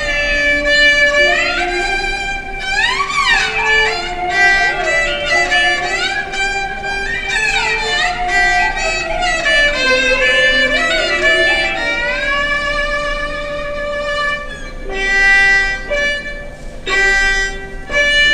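A subway performer playing a solo instrumental melody with long held notes and frequent pitch slides.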